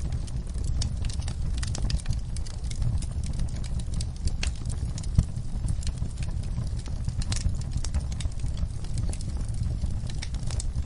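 Wood fire burning in a fireplace, crackling with frequent irregular sharp pops over a steady low rumble of the flames. One louder pop comes about five seconds in.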